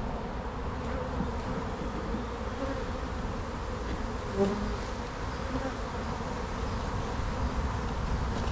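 Honey bee colony buzzing steadily around its opened hive during an inspection, with one brief louder buzz about halfway through.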